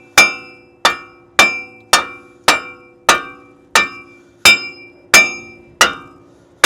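A hammer striking steel on the truck's front axle hub, with about ten evenly paced blows that each ring out metallically. The blows are knocking a stuck part loose.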